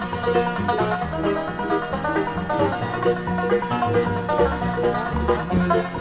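Acoustic bluegrass band playing an instrumental break: quick picked banjo and guitar over a bass line, with no singing.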